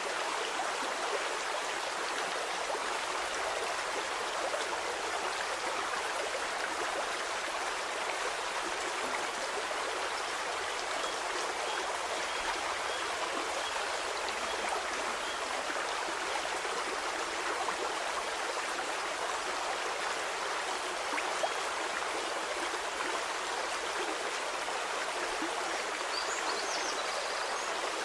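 Stream water flowing and babbling steadily over stones, an even rushing splash with no change throughout.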